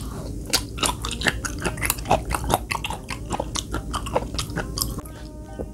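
Close-miked chewing of raw flounder fin sashimi: a steady run of short, sharp mouth clicks, about four a second.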